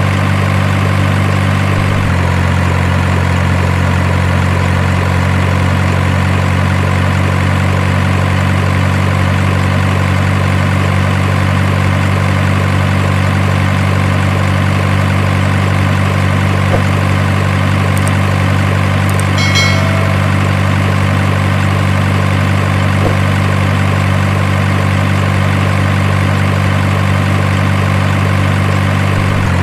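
Heavy truck diesel engine idling, a very even low drone that shifts slightly in tone about two seconds in. A brief high chirp sounds about two-thirds of the way through.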